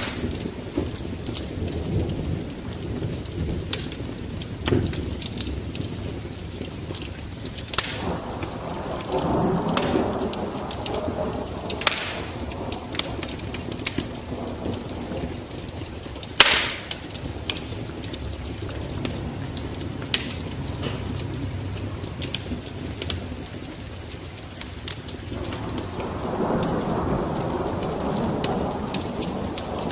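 Wood fire burning in a fireplace: a steady crackle of small snaps over a low rumble of flames, with a few louder pops and two swells where the fire flares up, about nine seconds in and again near the end.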